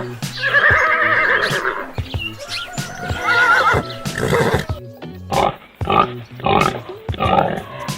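Animal calls over background music: a long wavering call in the first two seconds, a shorter wavering call around the middle, then a run of short calls in quick succession in the last three seconds.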